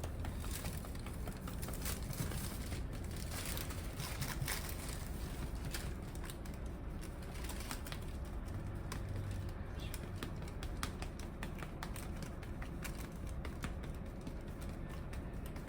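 A cat purring steadily, with many light clicks and taps over it.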